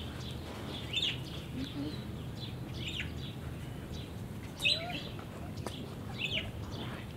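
Small birds chirping now and then in short falling notes, the loudest about two-thirds of the way through, over a steady low hum. Faint clicks come from a basset hound puppy gnawing a stick.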